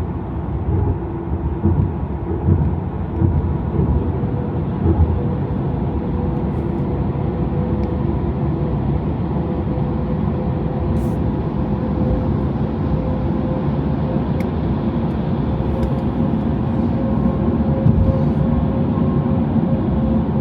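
Steady tyre and road rumble of a Tesla electric car cruising on an expressway, with no engine note, heard from inside the car. There are a few low thumps in the first few seconds, and a faint steady hum joins after about four seconds.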